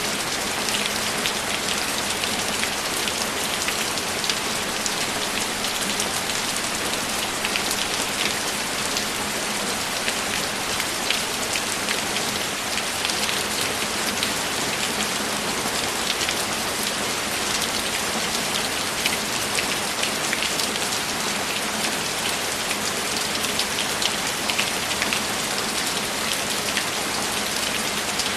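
Steady rain falling, an even hiss with close individual drops ticking through it.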